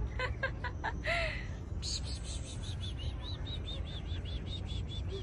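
A bird calling: a few sharp chips, then a quick run of short high chirps, about four to five a second, over a steady low rumble of street traffic.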